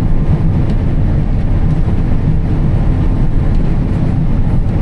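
John Deere combine running steadily while harvesting soybeans: a continuous low machine drone heard from the cab.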